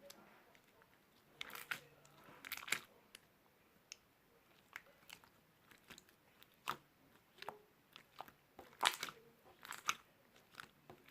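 Crunchy chewing and biting, with sharp crunches at uneven intervals that come thickest about two seconds in and again near the end.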